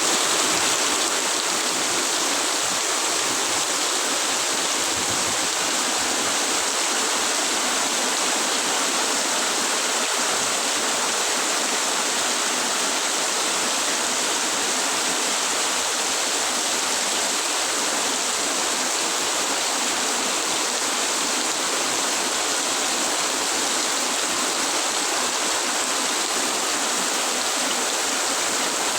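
Heavy rain falling in a steady, dense hiss, with no let-up.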